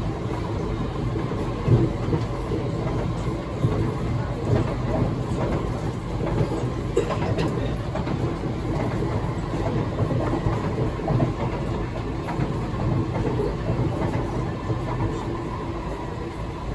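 Cabin running noise of a Kawasaki–CRRC Qingdao Sifang C151C metro train at speed: a steady rumble of wheels on rail, with a few short clacks from the track.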